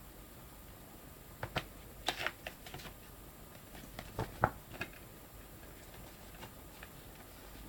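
Hands handling a DVD box set and its packaging: a scatter of small clicks, taps and light knocks, coming in two clusters about a second and a half and four seconds in.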